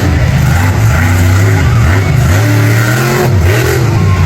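Vehicle engine revving up and down repeatedly, its pitch rising and dropping several times, with tyre noise under it.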